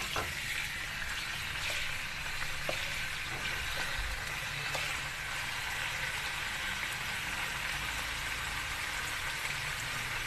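Whole raw quail sizzling steadily in hot oil as they are lightly fried, not yet browned. A few faint clicks of the spatula against the pan come in the first few seconds.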